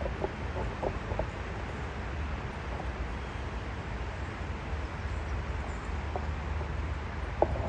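Steady low rumble of a distant vehicle under an even hiss of rain, with a few short faint ticks.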